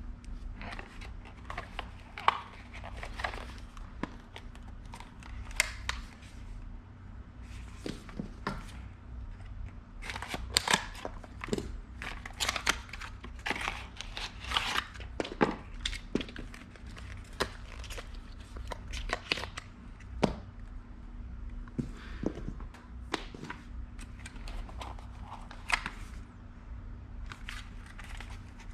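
Packaging being opened and handled by hand: irregular tearing and crinkling with sharp clicks and knocks.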